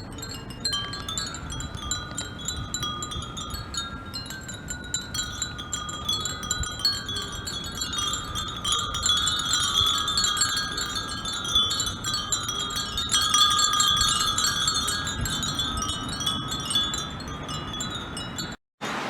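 Dozens of Japanese furin wind bells tinkling together in the breeze, many overlapping high ringing notes, busiest about halfway through, over a low wind rumble. The sound cuts out briefly near the end.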